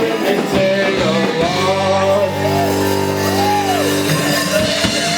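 Live rock band playing: electric guitars and bass with drums, with sustained, bending notes about halfway through.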